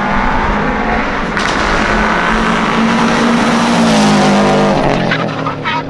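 Rally car engine at full throttle on a special stage, its pitch climbing steadily for a few seconds. It then drops sharply about five seconds in as the driver lifts or shifts, with a few sharp cracks near the end.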